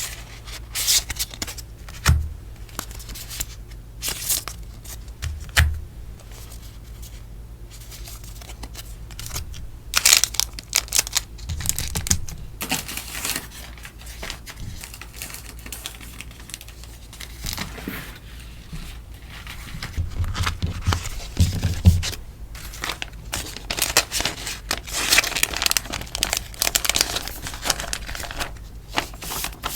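Sticker packaging being handled: irregular crinkling and rustling, with tearing sounds and a few soft thumps as items are set down.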